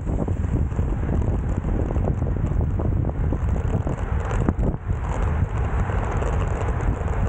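Wind buffeting the microphone of a bike-mounted action camera at road-race speed, a steady rumbling rush.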